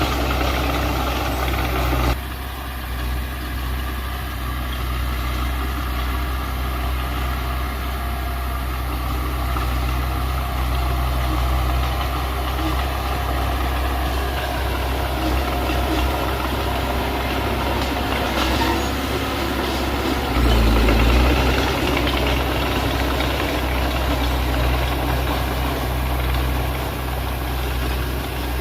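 Heavy diesel engine of earthmoving machinery running steadily, dropping a little about two seconds in and getting louder for a moment about twenty seconds in.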